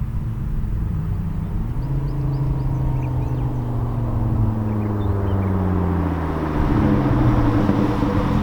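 Volvo V70 2.5T's turbocharged inline five-cylinder running through a catless 3-inch downpipe and a free-flowing Kamikaze muffler. The exhaust note falls steadily as the revs drop, then about two-thirds of the way through it grows louder and climbs again as the engine pulls under acceleration.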